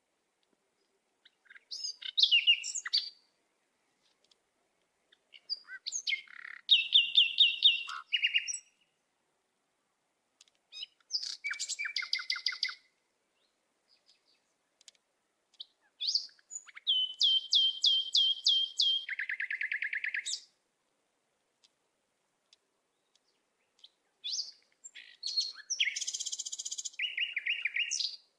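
A songbird singing in five separate phrases a few seconds apart. Each phrase is a run of quick repeated high notes, and several drop into a lower trill at the end.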